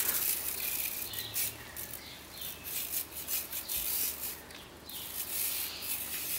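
Irregular rubbing and scrubbing strokes of soap being worked onto a motorbike.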